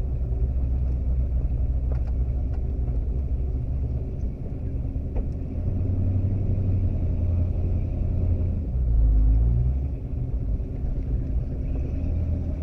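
1979 Pontiac Trans Am's Pontiac 400 V8 engine running with a low rumble; its note shifts about six seconds in and swells louder briefly around nine seconds in.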